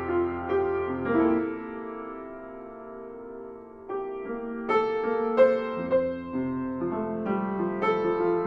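Background piano music, gentle and melodic, thinning out to a few soft notes for a couple of seconds before fuller playing resumes about four seconds in.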